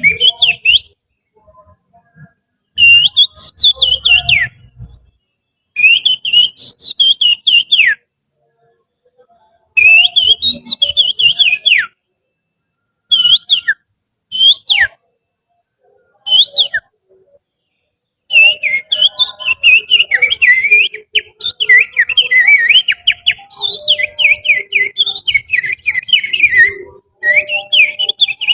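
Finger whistling imitating the chattering song of an oriental magpie-robin (kacer) in breeding excitement (ngobra). It comes as quick high chirping phrases a second or two long with short pauses between them, then a long unbroken run of rapid chirps over the last ten seconds.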